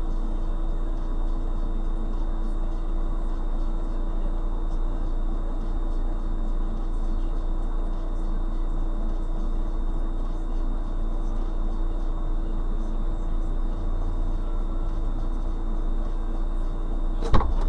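Steady low rumble and hum of a stationary car's idling engine heard from inside the cabin through a dashcam microphone, with a constant tone running through it. A single sharp knock near the end.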